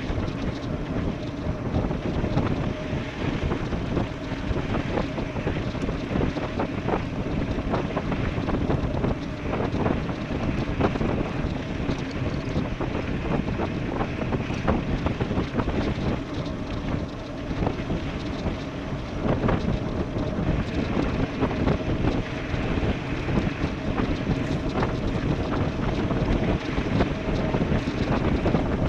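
Wind buffeting the microphone during a fast e-bike descent, over a steady rumble of tyres on a rough road with many small knocks and rattles, and a faint steady hum.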